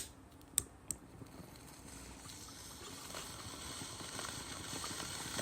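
Sound effects: a few sharp clicks in the first second, then a rushing noise with scattered small crackles that grows steadily louder.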